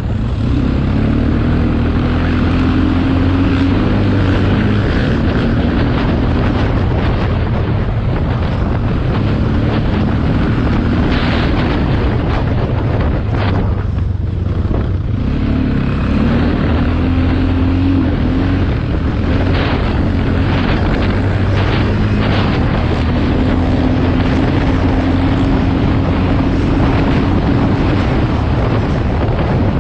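Motocross bike engine being ridden, its pitch rising and falling with the throttle, with a brief let-off about halfway, over a heavy rumble of wind on the microphone.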